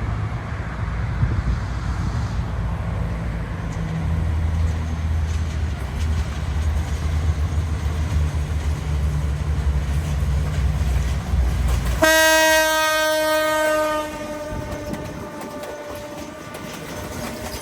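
Train passing with a diesel locomotive's engine rumbling steadily. About twelve seconds in, a loud horn blast cuts in and holds for about two seconds, then trails away with its pitch sagging slightly.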